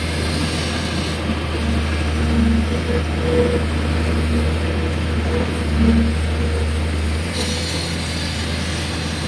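Hydraulic excavator's diesel engine running steadily with a deep hum as it works, with short higher-pitched notes coming in a few times.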